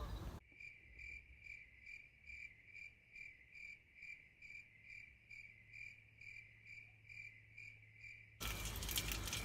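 Cricket chirping, a steady, even chirp about twice a second, cutting in and out abruptly.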